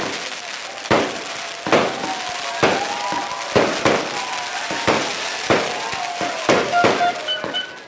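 Fireworks going off in a steady string of sharp bangs, about one a second, with two coming close together near the end.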